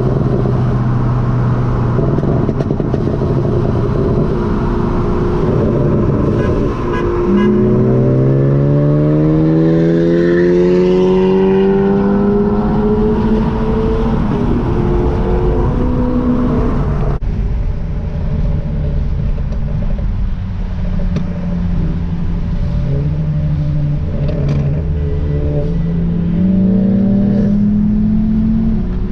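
Car engine accelerating under load: it runs steadily, then climbs in pitch through a long pull, drops off sharply, and climbs again in steps near the end.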